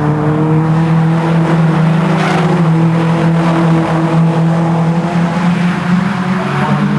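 Several race car engines running together at high, steady revs, their pitch holding almost level.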